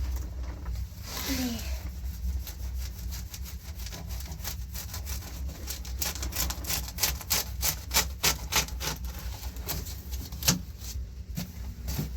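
Quick, repeated scraping strokes of a hand tool working a hard surface, several a second, growing busier about halfway through and stopping shortly before the end.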